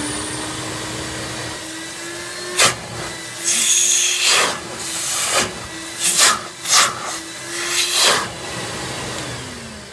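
Industrial wet vacuum with a newly fitted motor running at full speed, a steady whine broken by a sharp knock about two and a half seconds in and several loud bursts of rushing air. Near the end it is switched off and the whine falls as the motor winds down.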